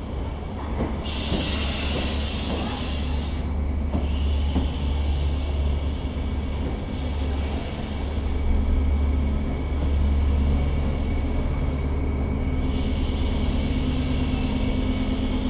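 SNCF TER regional train running past along the platform, its running gear giving a steady low rumble. High wheel squeal and hiss come and go in three bursts, the longest and strongest near the end.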